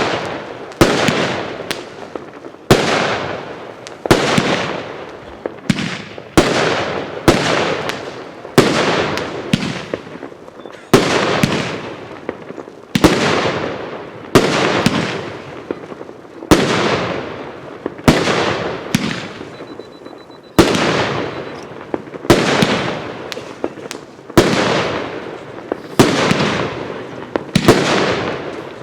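Consumer firework cake (the Passion Flower) firing shot after shot, about one a second: each a sharp bang whose sound fades out over about a second.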